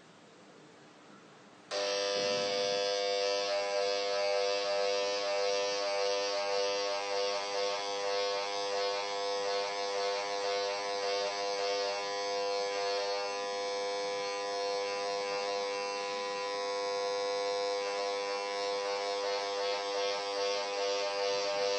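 A microwave probe's built-in speaker starts buzzing suddenly about two seconds in, turning the microwaves it detects into an audible tone. The buzz swells and fades as the probe moves through the standing wave, loudest at the antinodes and weakest at the nodes.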